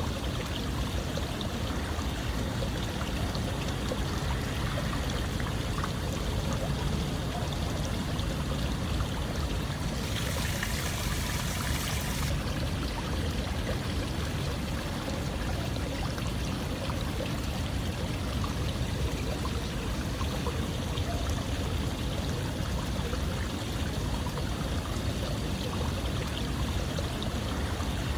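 Running water flowing steadily. About ten seconds in, a brighter hiss rises over it for about two seconds.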